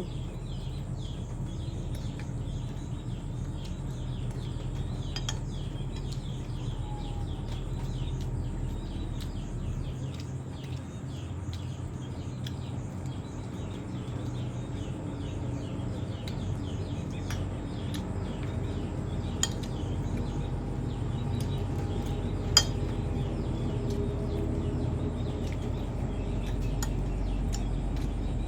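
Cutlery clinking on dishes during a meal, a few sharp clinks now and then, over a steady low hum with birds chirping.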